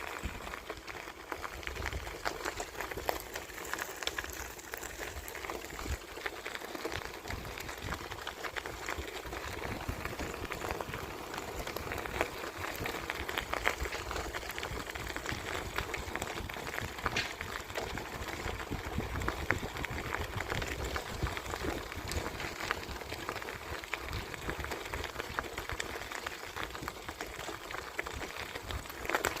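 Bicycle riding along a path: a steady crackling hiss from the tyres rolling, with many small ticks and some low rumble of wind on the microphone.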